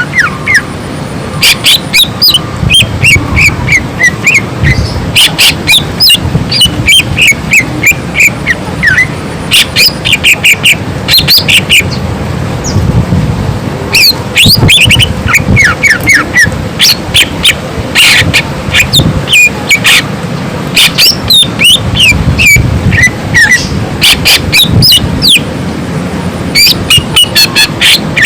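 Green leafbird (cucak ijo) singing loudly in bouts of rapid, sharp chip notes mixed with short falling whistles, with a brief pause about halfway through.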